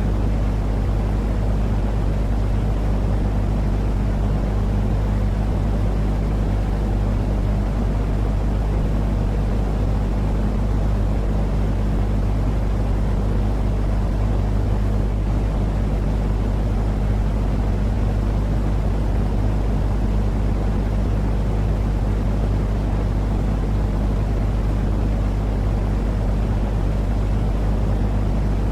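Continuous sleep-aid 'white noise' for babies: a steady, deep rumbling noise with a low hum under it, unchanging throughout, much like a vehicle or aircraft cabin drone.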